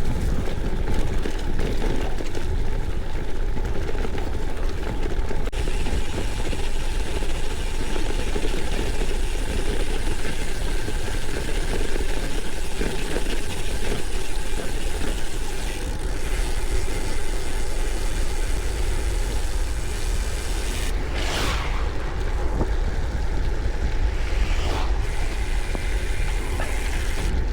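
Steady wind rushing over the camera microphone, with tyre noise from a gravel bike being ridden, and a few brief swishes about two-thirds of the way in and again later.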